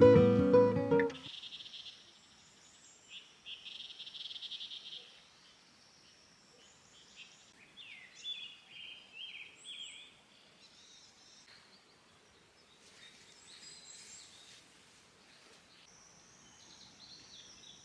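Guitar music cuts off about a second in. After that come faint wild birdsong and calls: scattered high chirps and short trills, with the busiest stretch of chirping in the middle.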